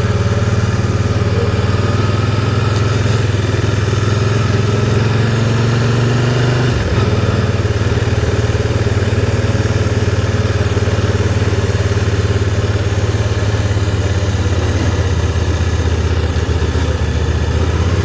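Can-Am Spyder three-wheeled motorcycle engine running at low riding speed, its pitch rising gently for the first several seconds, then dropping suddenly about seven seconds in before running on steadily.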